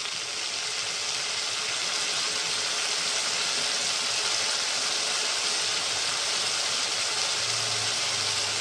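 Tomato-based spice paste sizzling steadily in hot oil in a kadai, a continuous even hiss that grows a little louder over the first couple of seconds.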